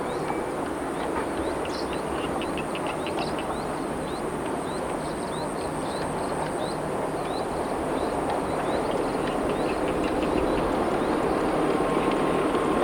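A train approaching, its running noise a steady rumble that grows slowly louder toward the end, while frogs and birds keep up many short, rising chirps over it.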